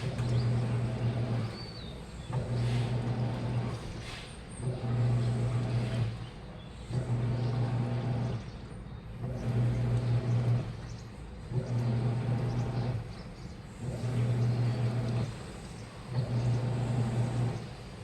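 Washing machine motor running in short bursts with a low hum, about one every two seconds with brief pauses between: the drum being turned back and forth during the wash cycle.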